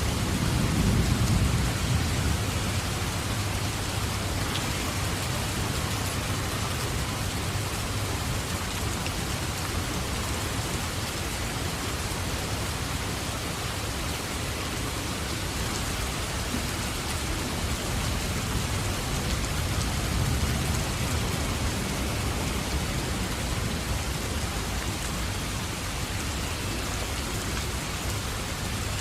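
Steady heavy rain falling, with low rolls of thunder rumbling near the start and again about two-thirds of the way through.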